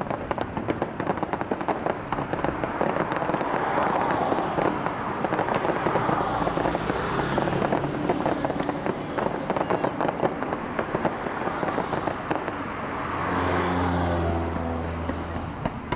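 Aerial fireworks bursting, with a dense, rapid crackling and popping from crackling-spark shells. About thirteen seconds in, a low steady pitched hum joins the crackle for about two seconds.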